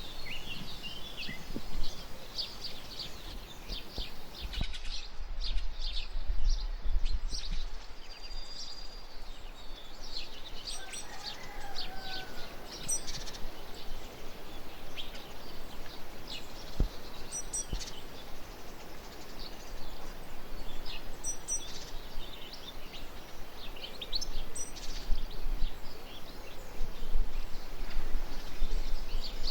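Birds chirping: many short, high calls scattered throughout, over a steady outdoor background hiss and a low rumble.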